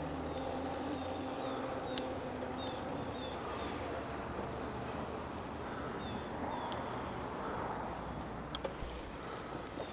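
Garbage truck engine running ahead at low speed, a steady low hum that fades out about two thirds of the way through, with short high chirps repeating throughout and a couple of sharp clicks.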